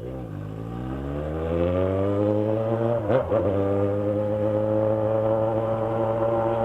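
Yamaha XJ6 motorcycle's inline-four engine, fitted with an aftermarket 'mexilhão' exhaust tip and baffle, rising in revs over the first two seconds. There is a short break about three seconds in, then it holds steady at higher revs.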